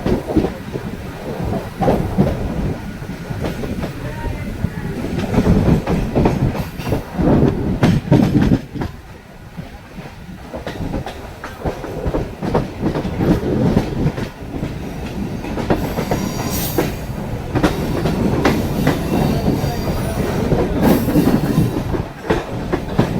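Mumbai suburban electric local train running on the track: a steady rumble and rattle of the coaches with the clickety-clack of wheels over rail joints. Brief high wheel squeals come twice in the second half.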